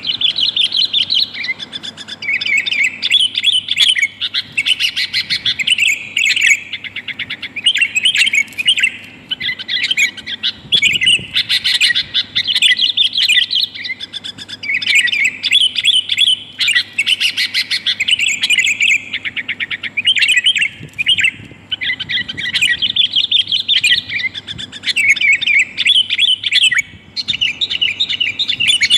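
Sooty-headed bulbul (kutilang) calling in quick, busy runs of chirps with short breaks between phrases. It is a female's call used as a lure to draw in wild males.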